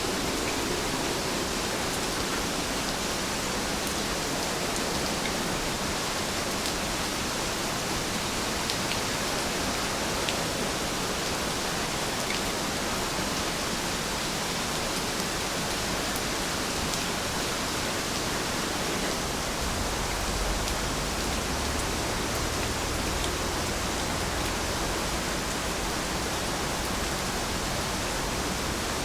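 Heavy rain falling steadily, an even hiss with scattered faint drop ticks. A brief low rumble comes in about two-thirds of the way through.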